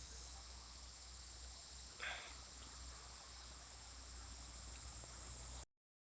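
Steady, high-pitched chirring of insects with a low hum under it, then the sound cuts off abruptly near the end.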